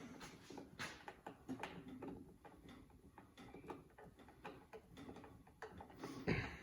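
Faint, irregular small clicks and ticks of hand work, a screw being turned in by hand while reassembling a stand mixer's housing, with a louder short knock near the end.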